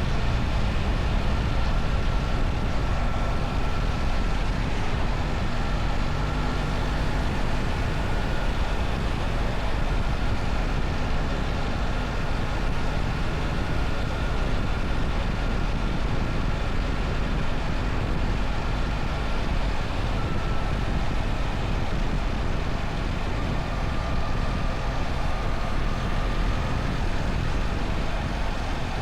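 BMW R1300 GS motorcycle with its boxer-twin engine running steadily under way, mixed with a constant rush of wind and road noise. A faint thin whine sits above it, and there is no marked revving or gear change.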